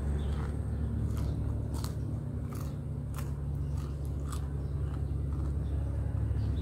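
Close-up chewing of crispy fried chicken feet: a string of sharp crunches, about one a second, dying away after about four seconds, over a steady low background hum.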